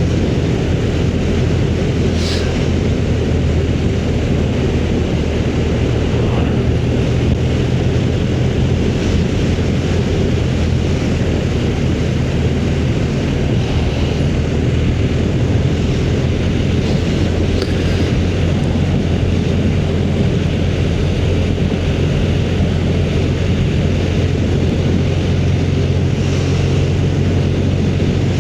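Motorcycle engine running at a steady cruise, with a constant low drone and wind and road noise.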